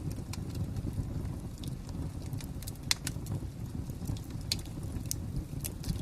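Fire crackling: a steady low rumble with irregular sharp pops, the loudest about halfway through.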